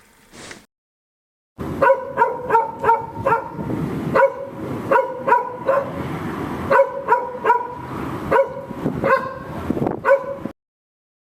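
Dog barking repeatedly: a fast run of short, sharp barks, several a second, starting about a second and a half in and stopping abruptly near the end.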